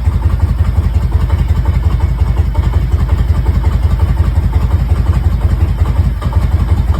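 Harley-Davidson Road King's air-cooled V-twin engine idling with a steady, even pulse, running just after its first start in four months.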